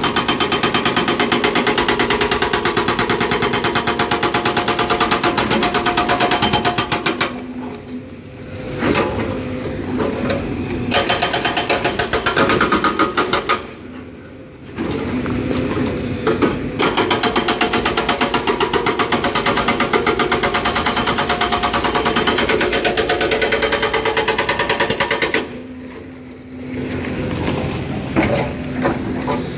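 Excavator-mounted hydraulic breaker hammering rapidly on hard rock in long runs, stopping three times for a second or two, with the excavator's engine running underneath.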